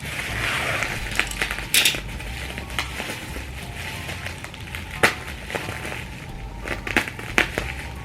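Packaging being handled during an unboxing: rustling and crinkling, with several sharp clicks and taps, the loudest about five seconds in.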